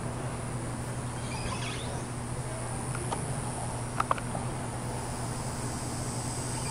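Steady high-pitched chorus of insects over a low steady hum, with two short clicks close together about four seconds in.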